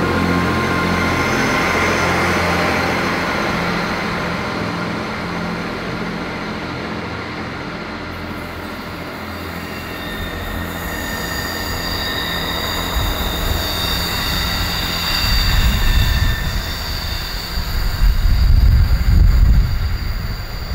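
A diesel multiple unit's underfloor engine running as it pulls away, fading over the first several seconds. Then a Class 158 diesel multiple unit comes round a curve, its wheels squealing in a high, steady whine, with wind buffeting the microphone in the second half.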